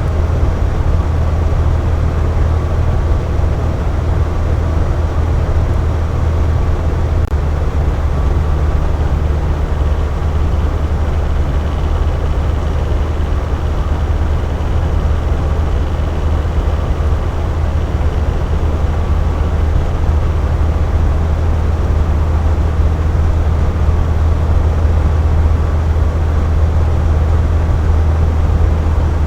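Box fan running steadily: a constant low hum of the motor and blades under an even rush of air, with no change in speed.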